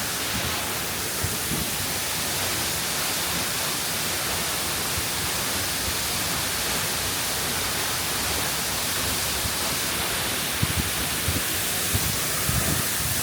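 A 65-metre waterfall pouring: a steady, even rush of falling water, with a few short low bumps near the end.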